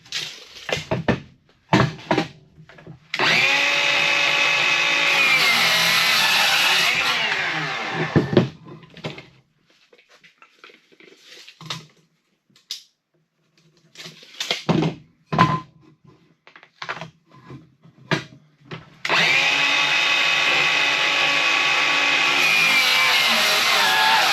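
Electric saw motor running with a steady whine, dipping in pitch as it cuts lumber for framing, then winding down; it runs twice, a few seconds in and again for the last few seconds. In between come sharp knocks and clatter of wood being handled.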